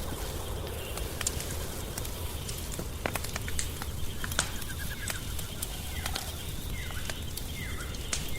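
Wood fire crackling, with irregular sharp pops over a low steady rumble. A few short chirp-like calls come in near the end.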